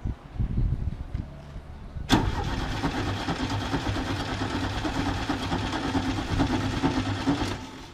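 Chevrolet Chevette's 1300 four-cylinder engine turning over on the starter, then catching suddenly about two seconds in and running steadily for about five seconds before stopping. It is fed kitchen gas through a hose, a first start after 26 years standing.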